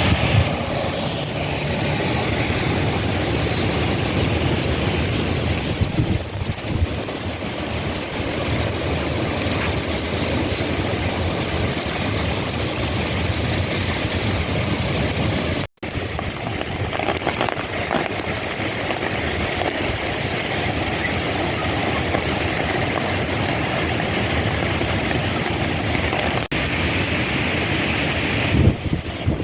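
Rain falling hard with gusting wind, a steady loud rush of noise that breaks off for an instant about halfway through.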